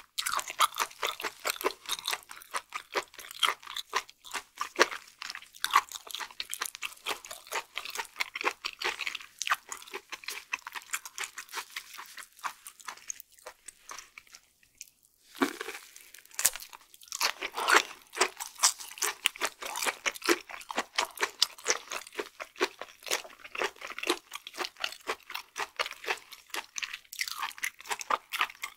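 Close-miked chewing of raw flatfish sashimi: a dense run of sharp, crisp chewing clicks, which stops for a couple of seconds about halfway and then starts again with a louder bite.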